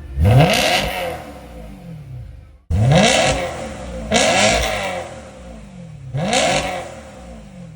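BMW E90 M3's V8 through an M Performance exhaust with an X-pipe, blipped four times. Each rev climbs sharply and then falls back slowly.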